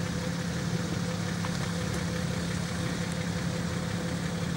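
Nissan Patrol's engine running steadily at low revs as the 4x4 crawls slowly up a rocky trail.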